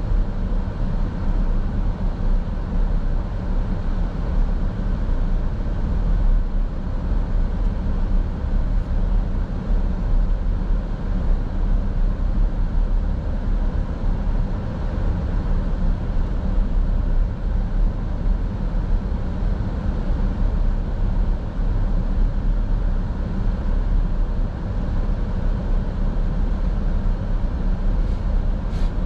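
Steady low rumble of a car driving, with tyre and engine noise heard from inside the car by a dash camera. A faint tick comes near the end.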